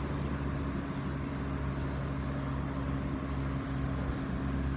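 1994–95 Air King by Lasko box fan running steadily on medium speed: a constant motor hum under the rush of moving air. The motor is a replacement taken from another fan.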